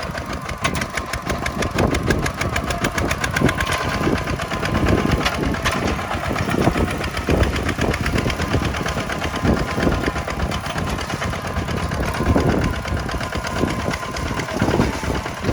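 Kubota tractor's diesel engine running steadily, with a rapid, even firing beat.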